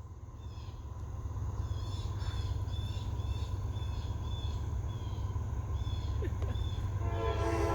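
Small birds chirping over and over over a low rumble that grows steadily louder as a CSX freight train approaches. Near the end the diesel locomotive's air horn starts sounding a chord of several tones.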